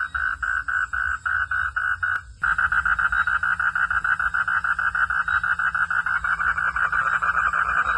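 Frogs calling in a steady run of pulsed notes, about four a second. The calls cut off abruptly a little over two seconds in, then resume faster and louder, around eight notes a second.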